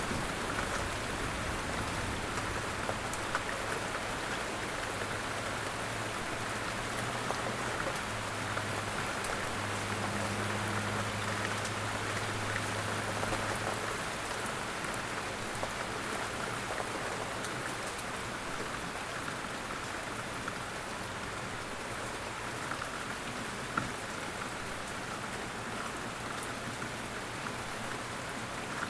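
Steady rain falling on a surface, with a low rumble underneath during the first half that fades out about halfway through, and a single sharp drop or tick near the end.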